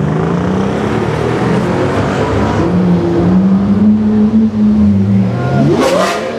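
Lamborghini Aventador's V12 engine revving at low speed, its pitch climbing and then holding for a few seconds. It dips about five seconds in, then a quick, sharp rev with a crack comes near the end.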